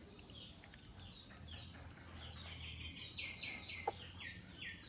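A bird calling in a quick series of short, falling chirps, about four a second. The chirps are faint at first and clearer in the second half, over a low steady background hum.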